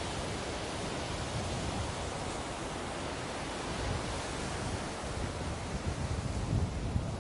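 Ocean surf washing on a beach: a steady, unbroken hiss of waves. Near the end, low rumbling gusts of wind buffet the microphone.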